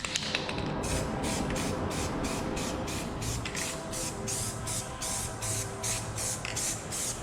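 Aerosol spray-paint can hissing in short repeated bursts, about three a second, as paint is laid on the car's body panels.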